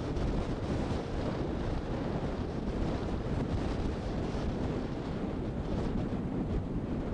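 Strong wind buffeting the microphone: a steady, rumbling, low roar with no distinct events.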